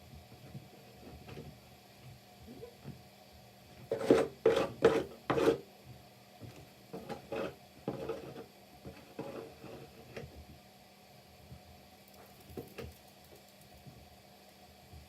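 Snow shovel scraping: four quick, loud scraping strokes about four seconds in, then a run of softer scrapes and a few faint ones later.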